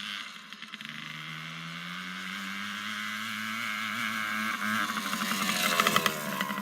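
Small off-road engine catching and revving up, its pitch and loudness rising steadily over several seconds and peaking near the end.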